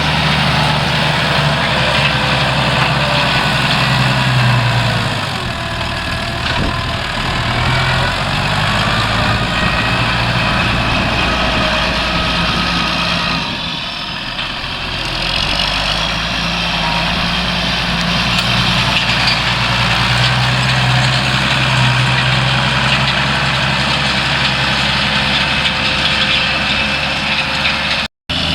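Older farm tractor's diesel engine running steadily as it pulls harrows across a field. Its note shifts a couple of times and dips briefly about halfway through.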